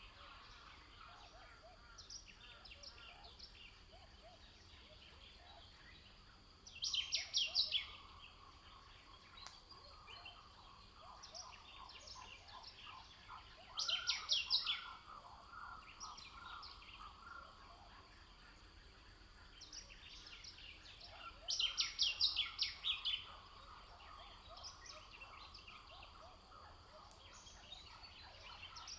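Birdsong: one bird repeats a short, rapid trilled song phrase about every seven seconds, four times, over a steady background chorus of other birds chirping.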